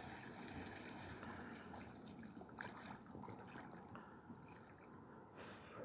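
Faint water trickling and dripping, with a few light ticks.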